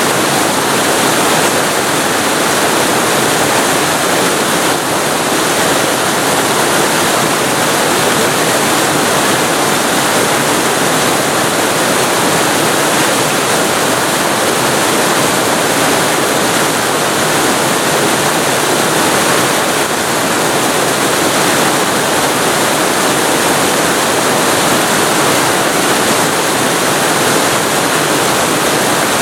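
Waterfall recorded very close to the falling water: a loud, steady rush of water that does not change.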